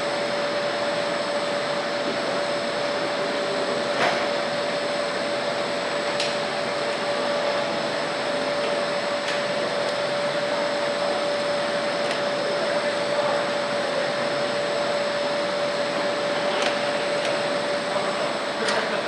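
Steady whir of factory machinery, with a constant mid-pitched hum and a few faint clicks.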